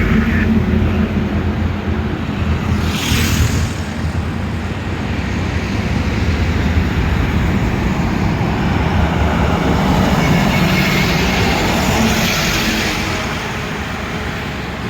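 Highway traffic with heavy diesel trucks passing, engines running under steady tyre and road noise, with a brief rush of noise about three seconds in as a vehicle goes by.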